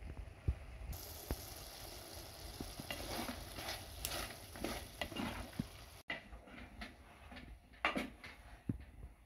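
Chicken pieces sizzling in a pot while a wooden spatula stirs them, scraping and knocking against the pot. The sizzle drops away suddenly about six seconds in, leaving only the spatula's scrapes and taps.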